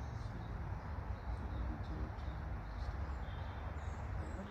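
Outdoor background: a steady low rumble, with faint, short, high bird chirps now and then.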